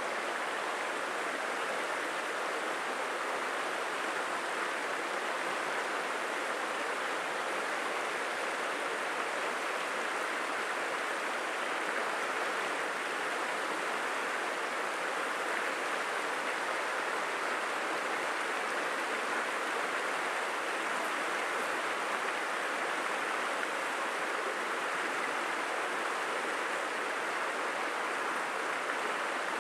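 Steady rushing of a stream's flowing water, an even hiss with no breaks.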